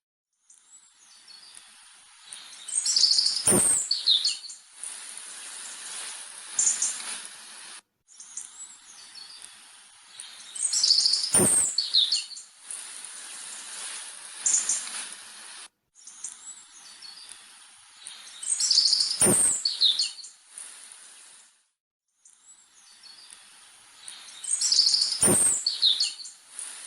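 Birds chirping and calling in high, quick notes, in a short recording that repeats four times with brief silent gaps between. Each repeat has a sharp click near its middle.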